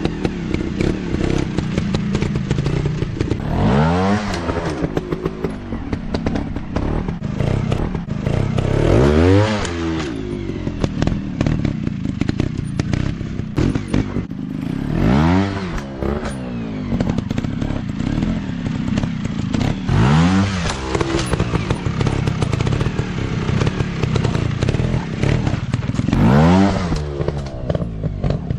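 Dirt bike engine running at low revs, revved up in short bursts about five times, roughly every five to six seconds, each time rising and falling back. Some clattering knocks are heard alongside.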